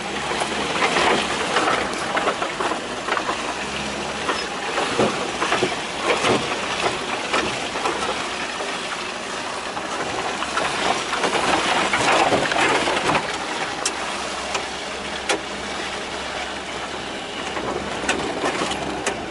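A Lada Niva laden with scrap metal driving slowly along a rutted dirt track: engine running low under the noise of tyres on rough ground, with frequent knocks and rattles as the car bumps through the ruts.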